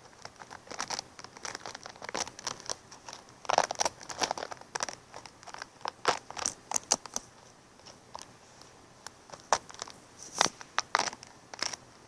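Irregular crinkling and crackling with light taps, close to the microphone, in clusters with a lull around the middle.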